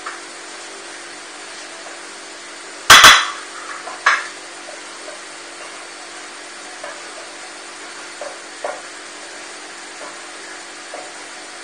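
Lentil burger patty frying on a nonstick griddle pan with a steady low sizzle. About three seconds in a loud double clack of a utensil against the pan is followed by another a second later, then light taps and scrapes as a spatula presses and nudges the patty.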